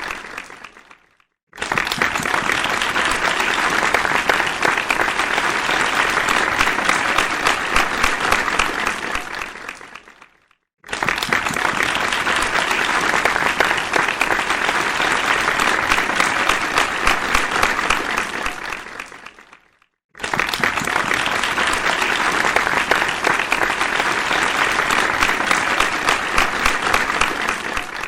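Audience applause: dense clapping of many hands in three stretches, each starting suddenly and dying away after about eight seconds, with a short silence between them.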